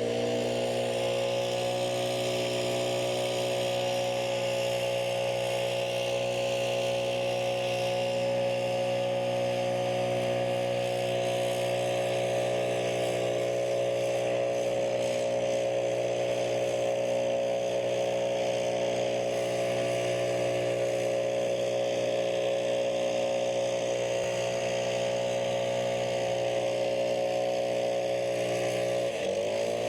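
Engine running steadily at a high, constant speed under load. Its pitch dips briefly and recovers near the end.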